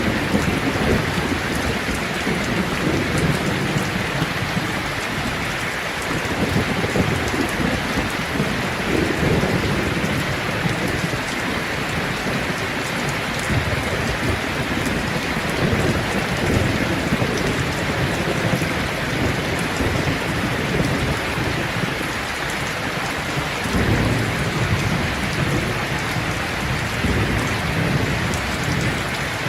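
Steady heavy rain falling, an even hiss of drops, with low rumbling swells every few seconds.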